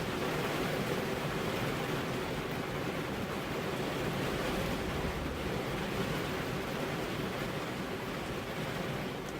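Steady rainfall, an even hiss with no single drops standing out.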